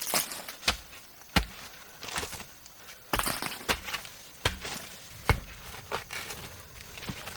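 A series of sharp knocks at an uneven pace, roughly one every second, with rustling between them.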